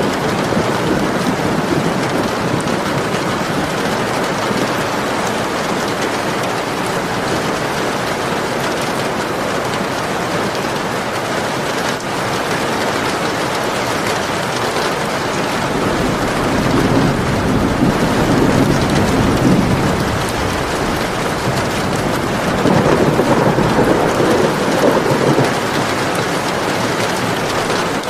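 Steady rain falling, with two low rolls of thunder rumbling through it, one a little past halfway and another near the end.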